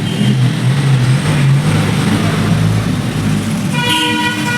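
A motor vehicle's engine running close by, with a horn sounding near the end.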